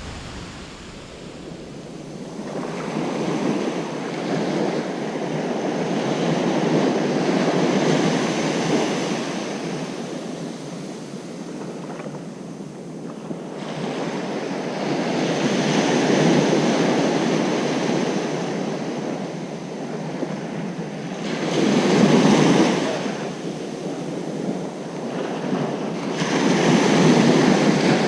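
Ocean surf on a beach: waves breaking and washing up the sand in a steady rush that swells and fades four times, every six to eight seconds.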